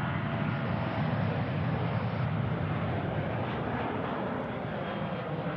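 Jet airliner's engines at high power, a steady rushing noise that eases slightly toward the end.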